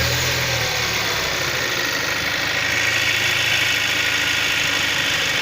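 Kia Sorento's 2.0 T-GDI (G4KH) turbocharged four-cylinder petrol engine idling evenly just after starting. It runs smoothly with no knock or other noise, its connecting-rod knock repaired.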